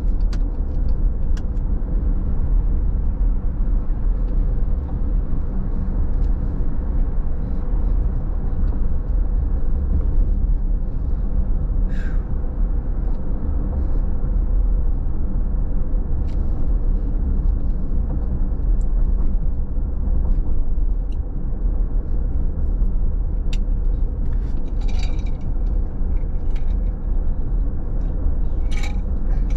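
Steady low rumble of a car driving along a wet road, engine and tyre noise from inside the car, with a faint steady hum and occasional light clicks.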